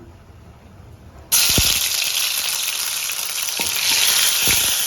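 Ginger-garlic paste hitting hot oil in a pan: a loud sizzle starts suddenly about a second in and keeps going, with a few light knocks.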